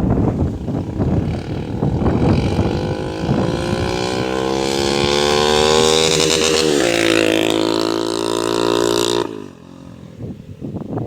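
Honda CB300's single-cylinder engine through a straight-piped 4-into-1 exhaust with no silencer, revving up hard through the gears. The pitch climbs, drops suddenly at an upshift about seven seconds in, climbs again, then falls away sharply near the end as the throttle is shut. The owner says the engine is worn and due for new piston rings.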